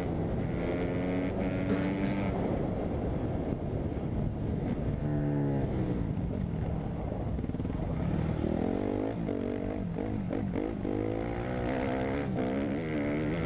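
Dirt bike engine revving, its pitch repeatedly falling and climbing as the rider blips the throttle and accelerates.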